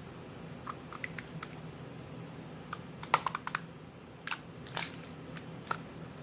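Slime being pressed and worked by hand, giving irregular sharp clicking pops, several in quick succession about three seconds in, over a steady low hum.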